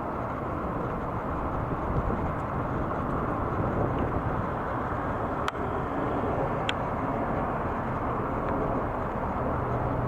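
Steady rumble of jet airliner engine noise, with a couple of sharp clicks around the middle.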